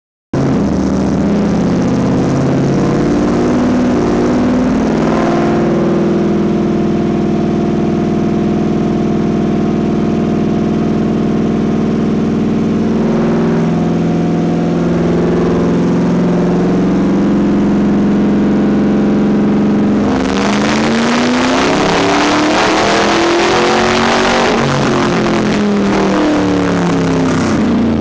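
Supercharged 5.4-litre V8 of a Ford SVT Lightning pickup, breathing through long-tube headers, a catless 3-inch midpipe and Magnaflow mufflers, running on a chassis dyno. It runs at a steady speed for about twenty seconds, then goes to full throttle for a pull, the pitch climbing for several seconds before falling back near the end.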